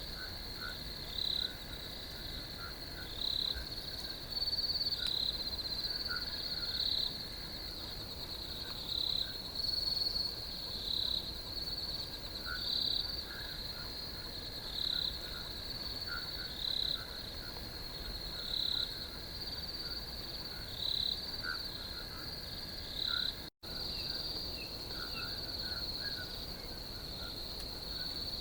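Crickets chirping: a continuous high trill with a louder chirp repeating about every two seconds, and fainter, lower chirps underneath. The sound cuts out for an instant about three-quarters of the way through.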